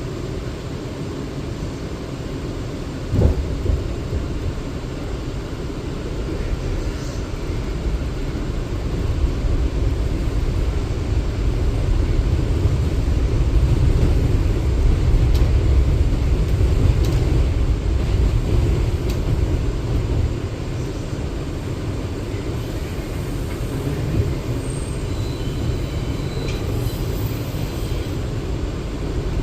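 R179 subway car running between stations, heard from aboard: a steady low rumble of wheels on rail, with one sharp knock about three seconds in. The rumble grows louder through the middle and then eases off.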